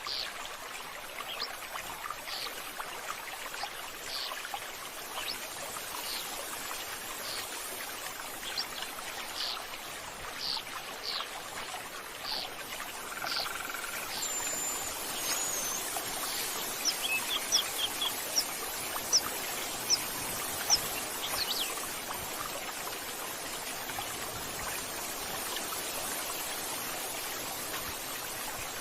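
Running water, a steady splashing hiss, with birds calling over it: short downward chirps repeat for about the first half, then a warbled whistle and a few sharp high chirps.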